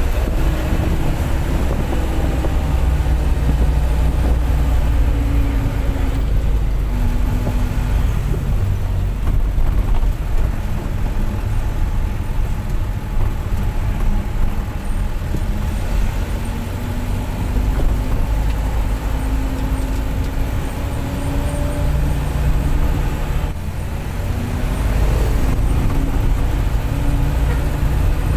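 Mitsubishi bus with a 'serigala' (wolf) aftermarket exhaust, heard from aboard while driving: the engine runs steadily over road rumble, its pitch rising as it pulls through the gears. It eases off briefly about three-quarters of the way through, then picks up again.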